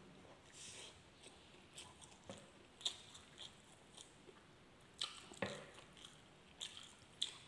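Faint close-up chewing of a mouthful of soft rice and milkfish sisig, with a few short wet smacks and clicks scattered through it.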